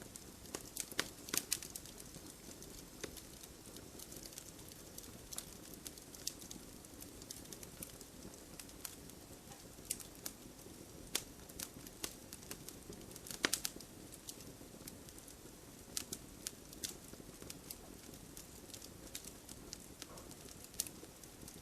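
Wood fire burning in a fireplace, logs crackling with irregular sharp pops over a soft steady hiss; a cluster of pops comes about a second in and another louder burst about thirteen seconds in.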